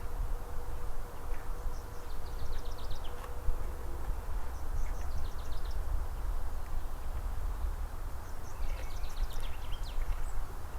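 A small bird singing three short phrases of quick high notes, over a steady low rumble. A faint steady buzz runs through the first few seconds.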